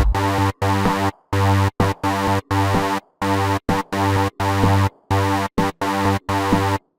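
Electro house synth part played back chopped into stabs: a sustained, pitched, buzzy synth tone repeatedly cut off dead, leaving short silent gaps in a stuttering rhythm.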